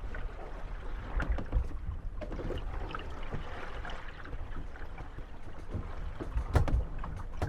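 Moored gondolas rocking on lapping water. Their hulls knock and creak against each other and the landing stage, with louder knocks about a second in and again near the end.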